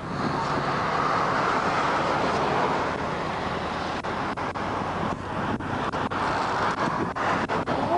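Steady vehicle and road noise, with several brief dips where the sound cuts out in the second half.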